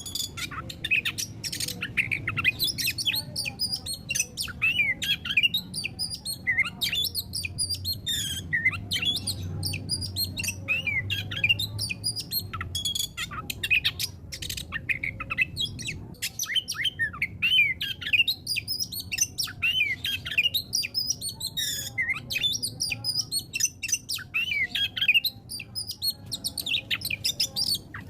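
Oriental magpie-robin (kacer) in full song: a fast, unbroken stream of varied high chirps, whistles and trills with only short pauses.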